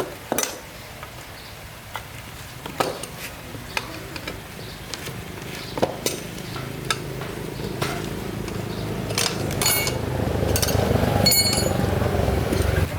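Scattered metallic clinks and knocks of tools on metal parts, then a motorbike running, its low steady sound growing louder over the second half.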